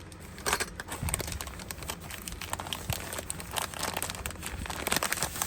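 Packaging crinkling and rustling as it is handled, in irregular crackly bursts.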